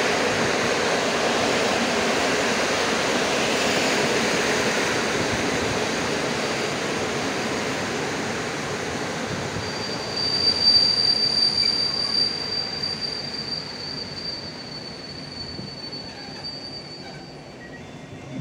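Passenger train hauled by an EP07 electric locomotive rolling slowly through the station, its rolling noise fading as it slows. About ten seconds in, a high steady wheel or brake squeal sets in and lasts several seconds before dying away.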